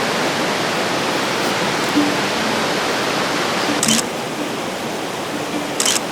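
Steady rushing of a river, an even wash of water noise, with two short, sharp high clicks about two-thirds of the way through and again near the end.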